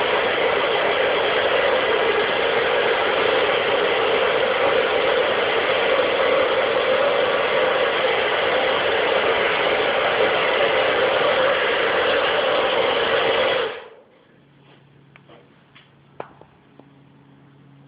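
A propane burner, like the one that heats the lead-melting pot for pouring a lead joint, running with a loud steady roar. It cuts off abruptly about 14 seconds in, leaving a few faint taps.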